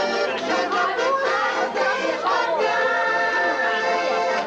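A group of voices singing together to accordion accompaniment.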